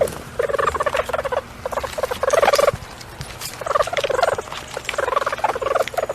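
Stoat (ermine) trilling: a series of short bursts of rapid, pulsed chattering calls with brief pauses between them.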